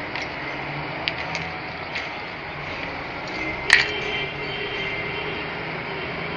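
Light clicks and taps of small parts and tools being handled, with one sharper knock about three and a half seconds in, over a steady background hiss.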